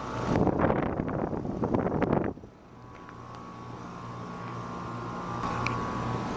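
2021 American Standard Silver series heat pump outdoor unit starting up in heat mode. A loud rushing whoosh cuts off abruptly about two seconds in. Then the unit's steady hum, with a low tone and a higher whine, builds gradually as it comes up to speed.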